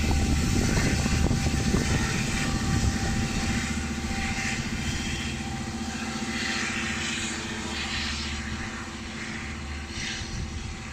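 LIRR C3 bilevel train, hauled by a diesel locomotive, pulling out of the station: a low engine drone and running rumble that fades steadily as the train moves away.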